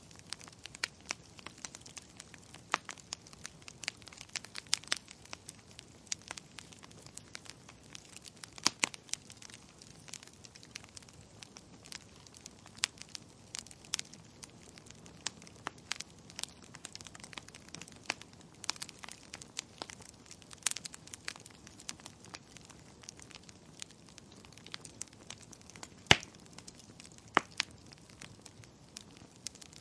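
Wood fire in a fireplace crackling, with irregular sharp pops and snaps over a faint steady hiss; the loudest pop comes about 26 seconds in.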